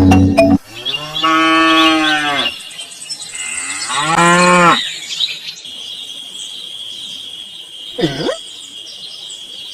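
Cow mooing: two long moos, each dropping in pitch at the end, then a short falling call about eight seconds in. A steady high-pitched tone runs underneath from about halfway.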